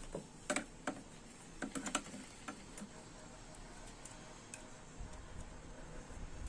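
A handful of light clicks and taps, most of them in the first three seconds, then fainter.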